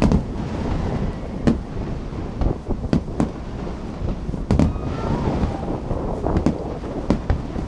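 Aerial fireworks shells bursting, a string of irregularly spaced booms, about one or two a second, some with a short echoing tail. Underneath runs a steady low rumble of strong wind buffeting the phone's microphone.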